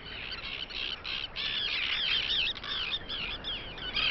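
Breeding colony of terns calling: a dense chorus of harsh, screaming calls, many birds at once, repeated several times a second.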